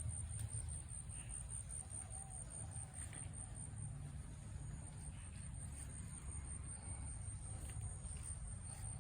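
An insect trilling in a steady, fast-pulsing high note over a low rumble, with a few faint clicks.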